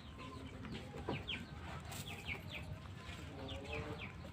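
Birds calling: many short, high, falling chirps repeated in quick runs, with a few lower clucking calls near the end and one sharp click about two seconds in.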